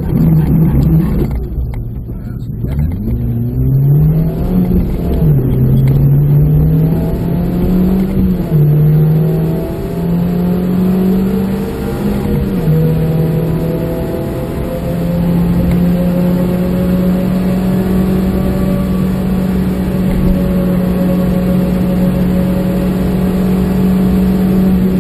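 Suzuki Swift Sport's four-cylinder engine heard from inside the cabin, pulling hard on track: its pitch climbs and drops several times with throttle and gear changes, then holds a steady drone for the last ten seconds, over tyre and wind noise.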